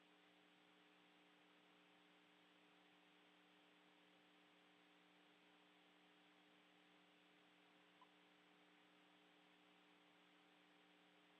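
Near silence: a faint steady electrical hum under a light hiss, with a single tiny click about eight seconds in.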